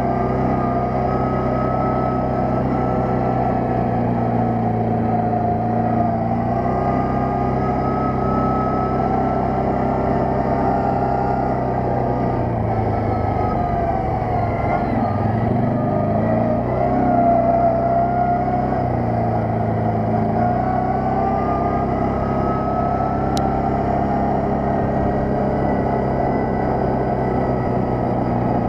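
Quad bike (ATV) engine running while riding. Its pitch drops and rises again several times as the throttle changes, most of all in the middle, and there is a single sharp click near the end.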